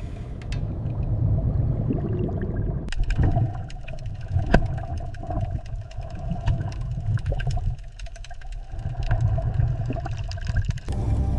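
Steady low rumble with a gurgling, watery sound, joined about three seconds in by many scattered sharp clicks.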